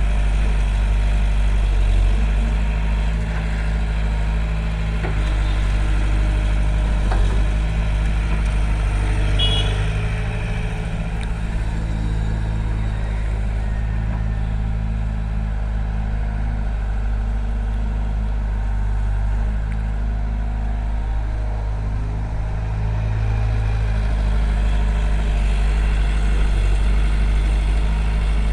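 Heavy diesel engine running steadily at an even, deep pitch.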